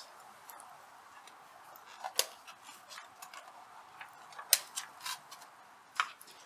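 Hardwood campfire crackling: irregular sharp cracks and pops over a faint steady hiss, the loudest about two, four and a half and six seconds in.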